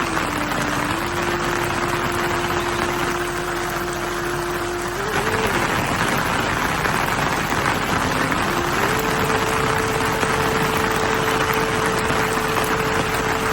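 Heavy rain falling steadily. Over it runs a single steady tone that wavers about five seconds in, then holds a higher note from about nine seconds.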